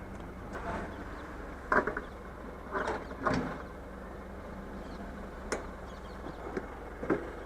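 A steady low mechanical hum with scattered clicks and knocks and a few faint voices, during refuelling at a petrol pump.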